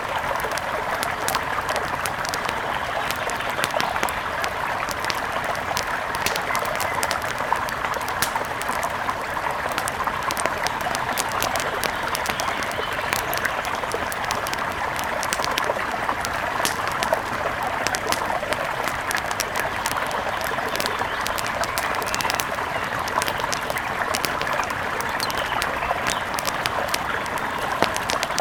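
Steady rush of a mountain river with frequent, irregular sharp crackles and pops of a wood fire.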